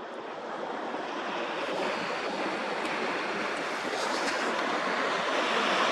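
Sea waves washing on the shore: a steady hiss of water that slowly swells louder.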